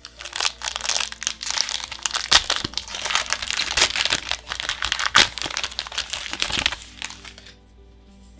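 Foil booster pack wrapper being crinkled and crumpled in the hands, a dense run of sharp crackles that stops abruptly about seven and a half seconds in.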